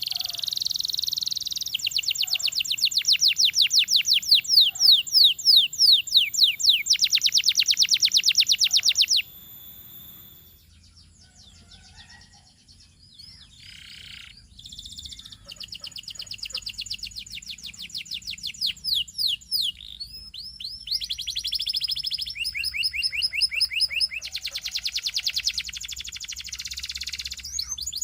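Domestic canary singing: fast rolling trills of rapidly repeated sweeping notes. The song breaks off about nine seconds in, leaving a few seconds of scattered soft notes, then resumes with more trills.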